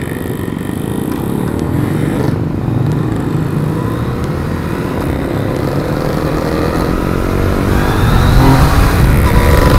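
Yamaha MT-09's inline three-cylinder engine pulling away from a stop and accelerating. Its pitch climbs, drops at a gear change about two seconds in, and climbs again, getting steadily louder, with wind rushing on the microphone as speed builds.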